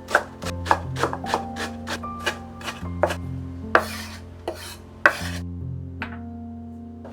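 Knife chopping on a cutting board in quick, irregular strokes, with a couple of longer scraping strokes past the middle, over soft background music.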